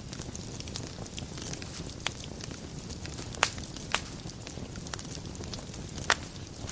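Fireplace fire burning and crackling: a steady low rustle of flames with frequent small crackles and four sharper pops, the loudest about six seconds in.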